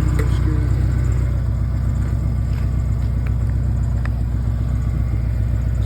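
An engine idling steadily with an even low rumble, with a few faint clicks about two to four seconds in.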